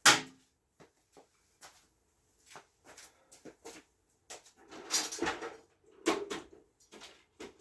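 Tools and parts being handled: a sharp click at the start, then scattered light clicks, taps and rustling, busier about five and six seconds in.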